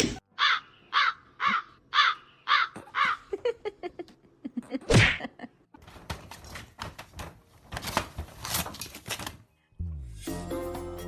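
An animal calling six times in quick succession, about two short calls a second, followed by scattered knocks and clicks with one louder thump. Music starts near the end.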